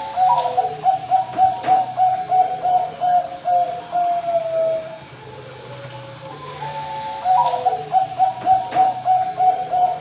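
Zebra dove (perkutut, Bangkok song-contest type) singing its rolling coo. It gives a rapid run of about a dozen even, pulsed notes that ends on a drawn-out, slightly falling note. The phrase comes twice, the second starting about seven seconds in.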